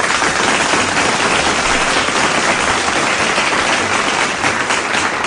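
Steady applause of many hands clapping, dense and even throughout.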